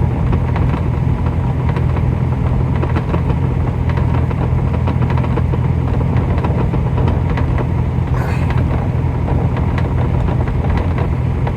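Steady low hum of an idling semi-truck's diesel engine, heard from inside the cab, with faint light clicks over it.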